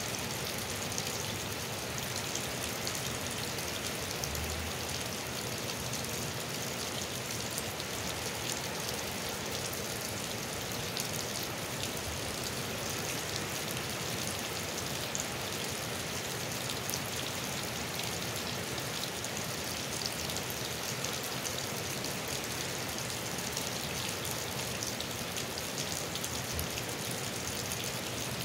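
Steady rain falling on pavement and a wet street, full of small drop ticks, with runoff pouring from a spout and splashing onto the ground.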